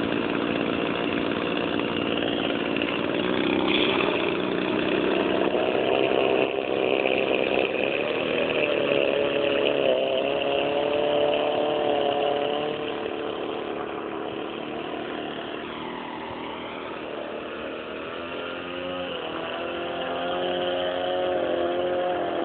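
Small boat engine running under way. Its pitch climbs over the first several seconds, settles, eases off and quietens past the middle, then picks up again near the end.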